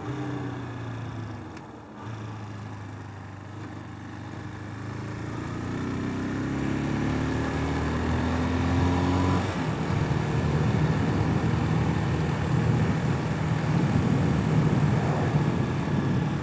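Single-cylinder engine of a Hawk 250 enduro motorcycle. It runs low at first, then climbs in pitch as the bike accelerates, with an abrupt break just past halfway that sounds like a gear change, and then pulls steadily at speed with a rush of noise.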